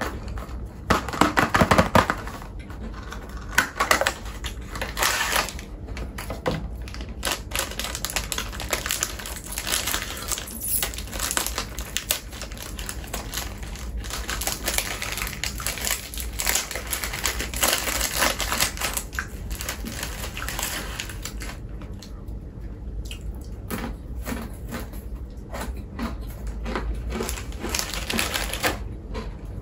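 Close-miked eating: crunchy snack food being bitten and chewed, giving dense, irregular crackling clicks. There is a louder burst about a second in.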